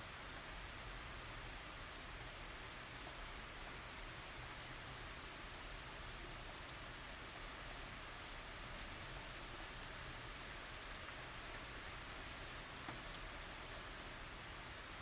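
Steady tropical rain falling, with a continuous hiss and many small drop ticks on surfaces; no thunder.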